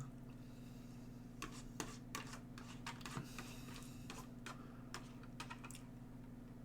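Faint, irregular clicks and light taps, about two a second at most, over a low steady hum.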